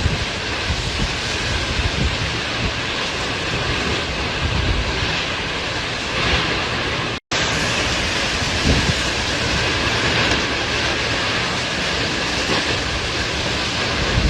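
Tornado wind rushing steadily, with low gusts buffeting the microphone. The sound drops out for an instant about seven seconds in.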